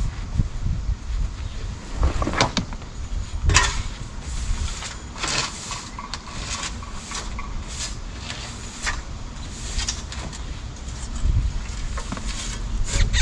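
Scraping and rustling strokes of coop bedding being scraped and shovelled out, with irregular scrapes every second or so over a low rumble.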